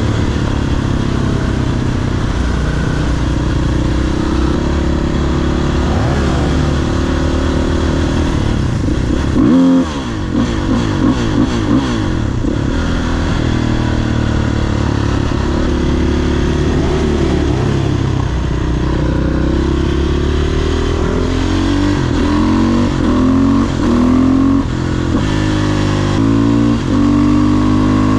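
500cc supermoto single-cylinder engine under way, revving up and down through the gears. About ten seconds in the revs rise sharply and then drop suddenly. A run of quick stepwise rev changes from gear shifts follows near the end.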